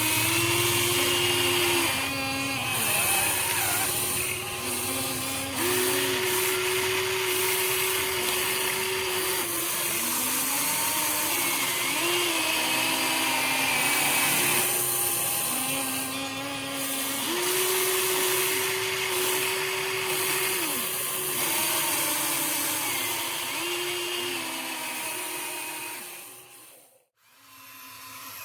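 Electric motors of a Huina 1593 RC excavator whining, the pitch stepping up and down every second or two as the load changes. The sound breaks off briefly near the end.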